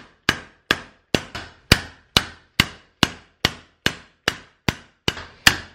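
Steady hammer blows, a little over two a second, driving a hole saw down inside a dented pit bike exhaust to push the dent out from within.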